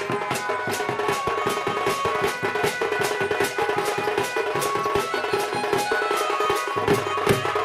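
Instrumental Odia folk music: a fast, steady beat of drum strokes under a melody of held notes.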